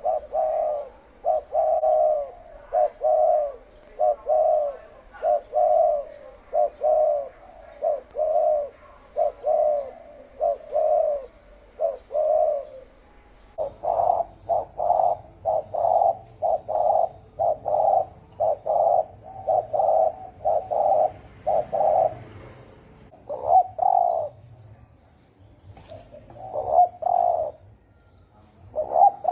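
Spotted dove cooing in a fast run of short repeated notes: the deep, hoarse 'thổ ồm' call used to provoke other doves. About halfway through the coos grow louder over a low hum, and near the end they come in sparser groups.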